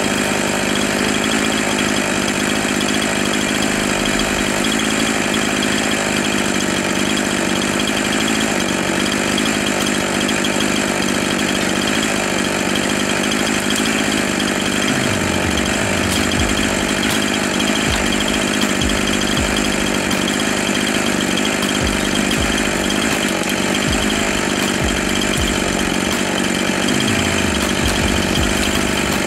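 Two-stroke chainsaw idling steadily, its engine note unchanging throughout with no revving or cutting.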